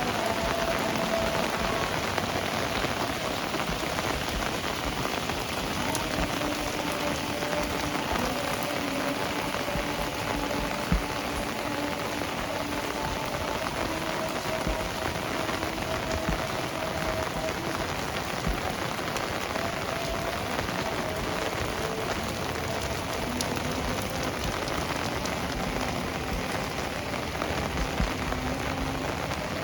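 Heavy rain falling steadily on surfaces, a dense, even hiss of drops. Faint held tones sit low in the background.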